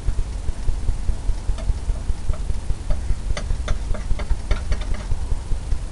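Palette knife working oil paint on a palette, making light irregular clicks and taps that come thickest past the middle, over a steady fast-pulsing low rumble.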